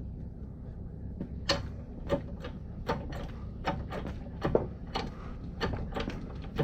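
A series of sharp knocks, about one to two a second and unevenly spaced, starting about a second and a half in, over a steady low hum.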